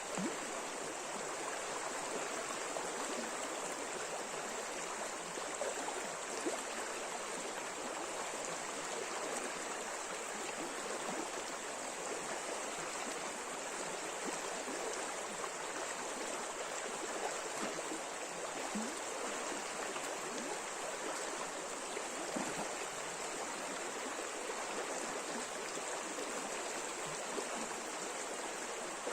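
River water running over shallow rapids: a steady, even rush with fine babbling.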